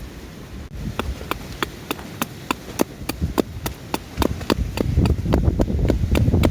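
Repeated sharp strikes at an even pace, about three a second, starting just under a second in, with a low rumble growing louder in the second half.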